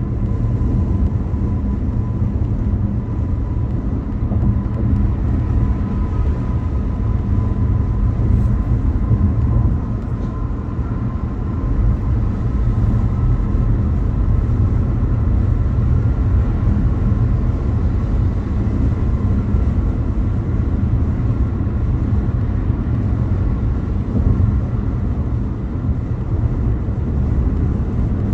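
A car driving at speed: steady road and engine rumble, with a faint steady whine over it.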